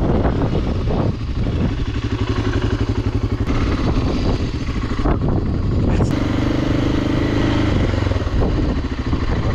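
BMW G 650 Country's single-cylinder engine running at low revs as the motorcycle is ridden slowly over rough gravel, its pace rising and falling with the throttle.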